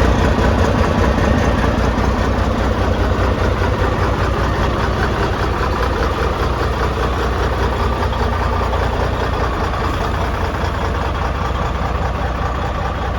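Cummins N14 inline-six diesel engine of a 1996 Freightliner truck idling steadily, with a deep, even rumble.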